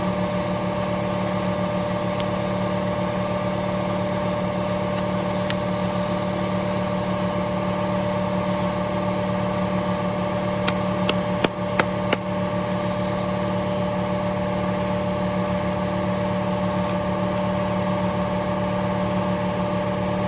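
Power sander running steadily while sanding a steel axe head, with a few sharp clicks about eleven to twelve seconds in.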